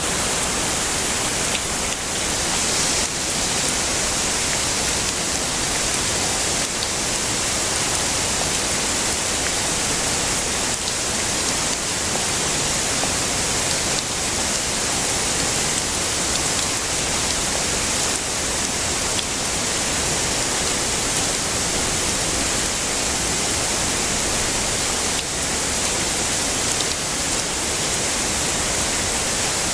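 Heavy rain falling steadily: a dense, even hiss that holds constant, with no thunder.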